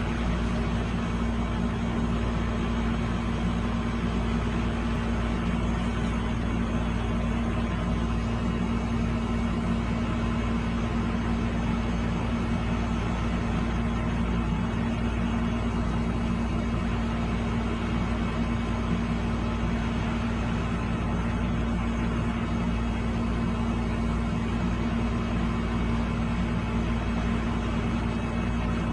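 Steady machine hum with a low drone that does not change.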